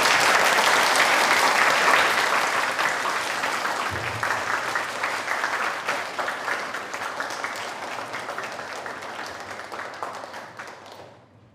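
A crowd applauding: many hands clapping together, loud at first, then slowly dying away near the end.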